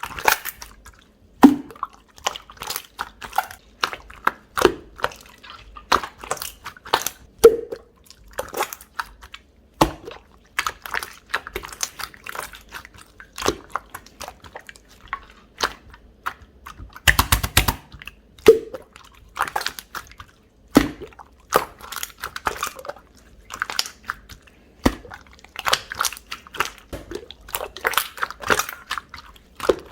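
Hands squeezing and pressing a chewy, jelly-textured slime: an irregular run of sticky clicks and wet crackles, several a second, with occasional short, lower pops.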